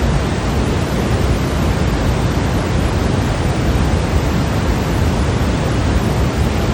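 Steady electronic white noise: an even, unbroken hiss, heavier in the low end, with no change throughout.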